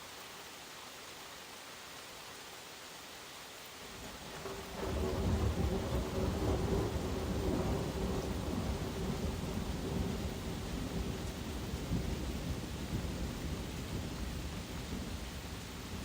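Steady rain hiss, then about four seconds in a long roll of thunder that swells into a deep rumble and slowly fades away.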